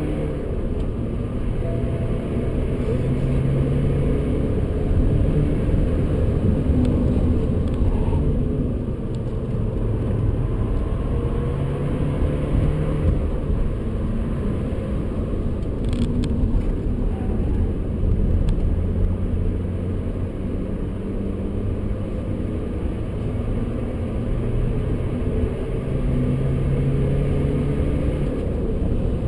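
Cabin sound of a BMW 125d's four-cylinder turbodiesel pulling hard as the car accelerates through the gears, its engine note rising and stepping down at shifts, over constant tyre and road rumble.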